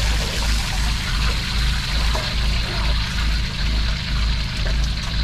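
Steady hiss of food-truck kitchen cooking over a constant deep drone from the truck's equipment.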